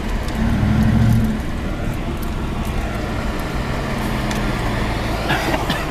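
Car engine and road noise, a steady low hum that swells briefly early on and then settles.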